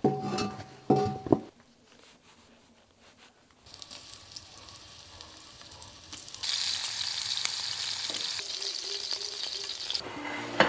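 A cast iron skillet clanks twice and rings as it is set on the stove. Hot oil in it hisses faintly, then sizzles loudly from about six seconds in as floured eel pieces are laid into it, frying.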